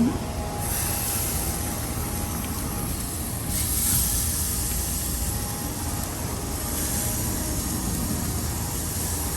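Pork chops sizzling on the hot grate of a Big Green Egg kamado grill above 400 degrees: a steady hiss that swells about a second in and again around four seconds in, over a low steady rumble.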